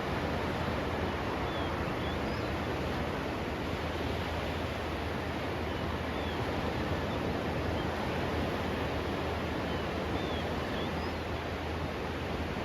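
Steady rushing noise of sea surf at the shore, with a few faint short high chirps here and there.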